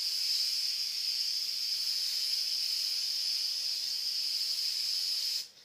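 Aerosol spray-paint can spraying in one long steady hiss that cuts off suddenly near the end.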